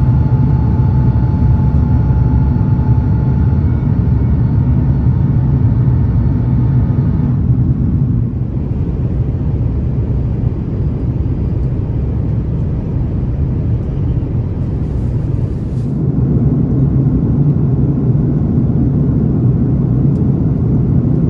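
Airliner cabin noise in flight aboard an Airbus A330-900neo: a steady low rumble of engines and airflow. For the first seven seconds or so a faint whine with steady tones runs through it. The sound shifts abruptly about seven seconds in and is a little quieter until it rises again about sixteen seconds in.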